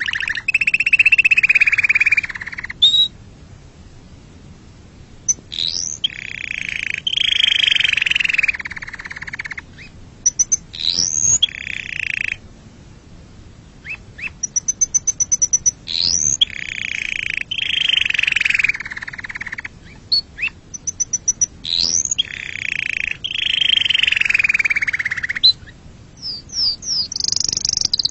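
Domestic canary singing in phrases of a few seconds: fast rolling trills, rapid repeated notes and quick upward-sweeping whistles, with short pauses between the phrases.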